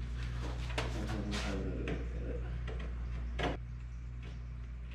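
Razor blade scraping along a freshly cut edge of a plastic ride-on toy body, in several short strokes, the strongest about three and a half seconds in. A steady low hum runs underneath and drops off right after that stroke.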